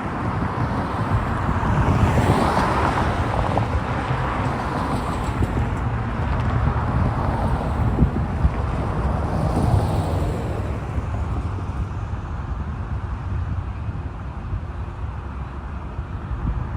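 Road traffic passing on the street beside a railroad crossing, with two cars swelling past about two seconds in and again about ten seconds in, and wind buffeting the microphone.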